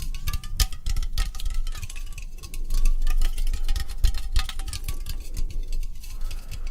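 ASMR tapping: fast, irregular taps and clicks on hard objects, with faint ringing tones that waver slightly in pitch.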